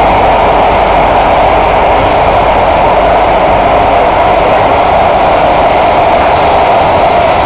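Kawasaki–CSR Qingdao Sifang C151A metro train running at speed, heard from inside the passenger car: a loud, steady roar of wheels on rail and running gear. A higher hiss joins from about halfway through.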